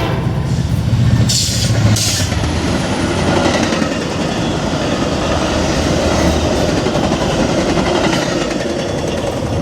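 Metra commuter train passing close by: a steady rush and rumble of cars rolling over the rails, with two short sharp bursts of hiss about a second and a half and two seconds in.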